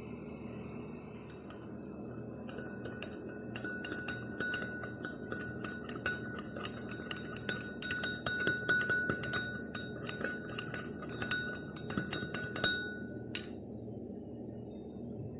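A metal spoon clinking rapidly and repeatedly against a bowl while stirring a spice, turmeric and tomato-paste marinade together. The clinks start about a second in and stop suddenly near the end.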